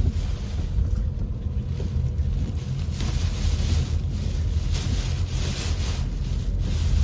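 Typhoon wind gusting and buffeting the microphone: a constant low rumble with a higher hiss that swells and fades with each gust.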